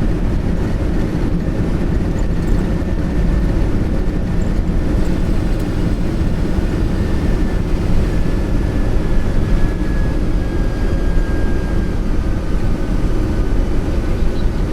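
Boeing 747-200 on its landing rollout, engines in reverse thrust with a steady heavy rumble, heard from inside the cockpit. In the second half a faint whine slowly falls in pitch as the jet slows.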